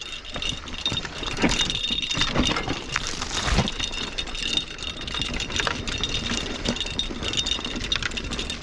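Specialized Stumpjumper EVO mountain bike rattling and clattering as it moves over rough, rocky ground, with a dense run of clicks and knocks.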